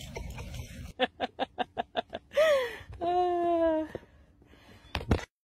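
About a second of noisy rustle that cuts off abruptly, then a person laughing: a quick run of short bursts at about five a second, followed by a longer, drawn-out high laugh. A sharp knock comes near the end.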